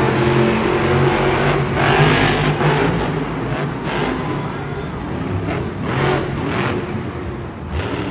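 Monster trucks' engines racing and revving hard, loud, with the sound surging and easing off several times as the trucks accelerate.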